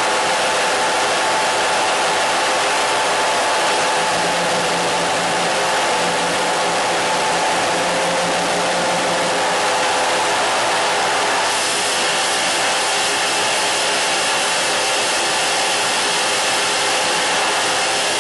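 Steady radio static, an even hiss with faint steady tones running through it; the hiss turns brighter about eleven and a half seconds in.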